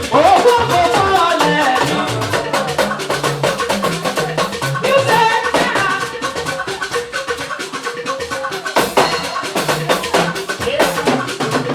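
Live praise band music: a drum kit and percussion keep a steady, busy beat under melodic instruments.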